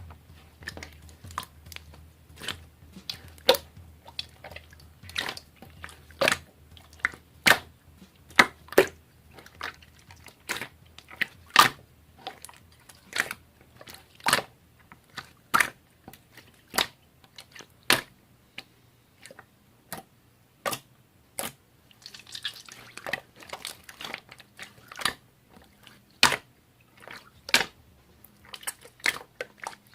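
Crunchy slime being pressed and squeezed by hand, giving sharp crackling pops at an irregular pace, about one or two a second, some in quick clusters. A faint low hum underneath fades out about ten seconds in.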